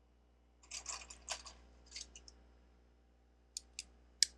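Small plastic Lego pieces being handled and rummaged through in a short clatter, then three sharp separate clicks near the end, the last the loudest.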